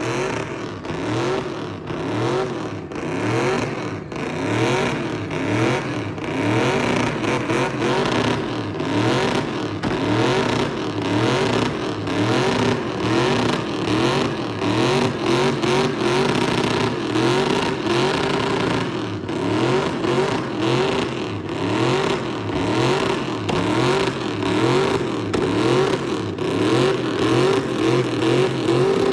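Vehicle engine revving in quick repeated rises, each climbing in pitch and dropping back about once a second, over steady loud noise, as the vehicle spins donuts.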